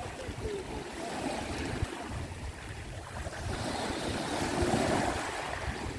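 Sea waves washing onto a stony beach, with wind buffeting the microphone.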